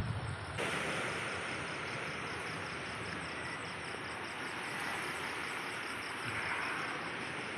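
Insects, likely crickets, chirping in a rapid, even pulse over a steady outdoor hiss, which steps up about half a second in.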